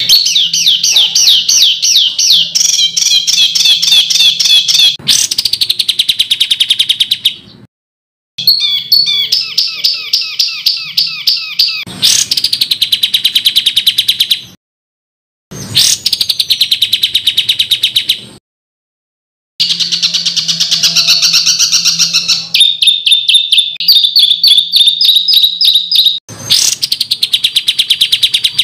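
Songbird calls in harsh, rapid-fire runs of fast repeated high notes and trills. They come in several loud bursts, broken by short dead silences where recordings are spliced together.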